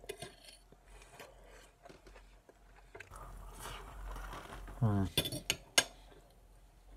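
A person chewing a mouthful of asparagus and baked potato, with wet mouth smacks and scattered small clicks. About five seconds in comes a short falling "mm" hum, followed by a few sharp clicks of a fork.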